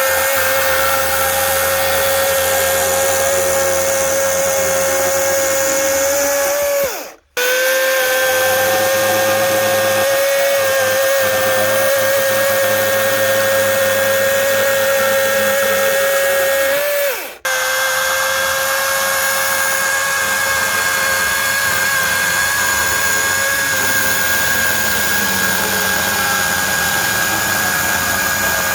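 A power tool's motor running steadily at high speed with a constant whine. Twice it winds down and stops briefly, about a third of the way in and again past halfway, then runs on.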